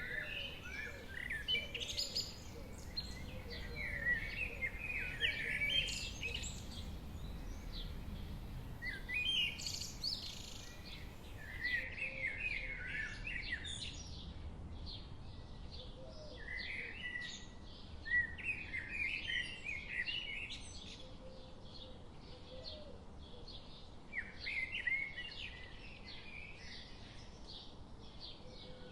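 Forest songbirds singing in short bursts of quick chirps, a phrase every couple of seconds, over a faint steady low background noise.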